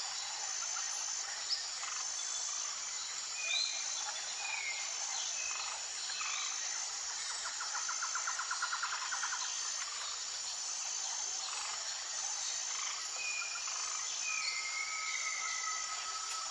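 Outdoor nature ambience: a dense, steady chorus of insects with a high pulsing call repeating about every second and a half, a rapid trill around the middle, and scattered bird chirps and short gliding calls.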